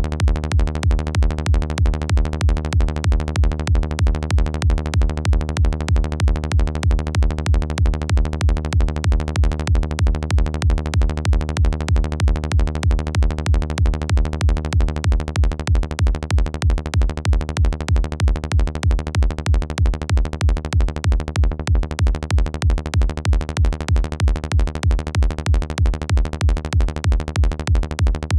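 Electronic kick drum and synth bass looping a steady repeating pattern, with most of the energy deep in the low end.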